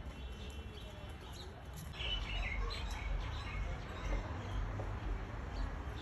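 Small birds chirping in short calls, a cluster of them about two seconds in, over a steady low rumble.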